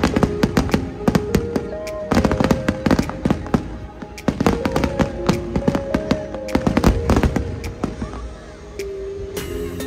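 Fireworks going off in rapid succession, many sharp bangs and crackles close together, over music with held tones. The bangs thin out in the last couple of seconds while the music carries on.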